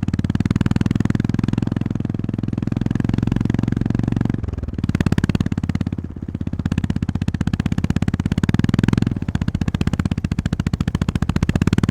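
Honda GB350S air-cooled 348 cc single-cylinder engine running under way, its firing pulses steady and thumping out through the exhaust. The engine note dips briefly about four seconds in and again about nine seconds in, as the throttle eases or a gear changes.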